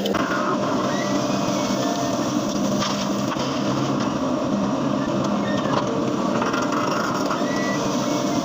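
Excavator diesel engine running steadily, a dense, even mechanical din with a held low hum.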